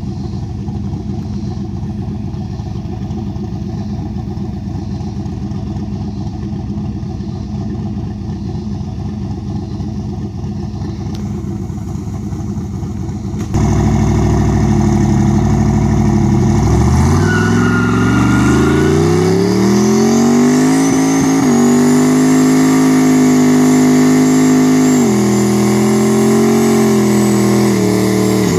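Turbocharged LS V8 in a Fox-body Mustang idling steadily, then about halfway through it jumps suddenly to a loud, hard-revving run. The revs climb and are held high for a burnout, dipping briefly near the end, with a high whine rising over the engine.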